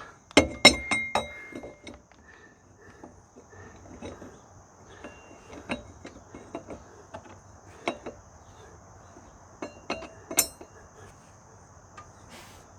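Metal tools and parts clanking and clinking during ATV sprocket work: a cluster of loud ringing clanks in the first second and a half, then scattered lighter clinks. A steady high-pitched insect drone runs underneath.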